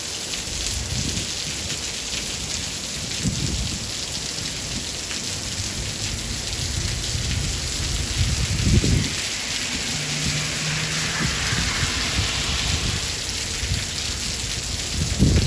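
Steady rain with low rolls of thunder coming and going. The strongest rumbles come about nine seconds in and again near the end.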